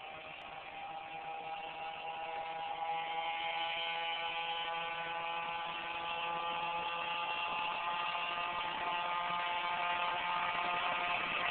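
Small mini bike engine running at a steady speed, its buzzing note holding nearly level in pitch and growing gradually louder.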